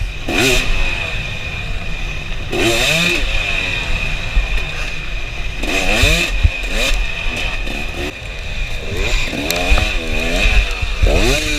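KTM 300 two-stroke dirt bike engine revving hard, its pitch climbing and dropping back every second or two as the throttle is worked through a rough trail section.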